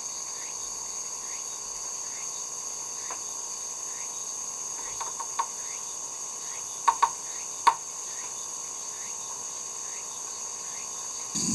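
Steady high-pitched chorus of insects trilling, with a fainter short rising chirp repeating over it. A handful of sharp little clicks or knocks fall in the middle, two close pairs and a single one.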